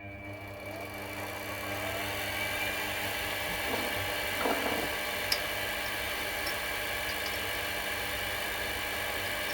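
Mini milling machine motor switched on, spinning up over the first couple of seconds and then running steadily with a whine, with a brief rougher noise and a click about halfway through.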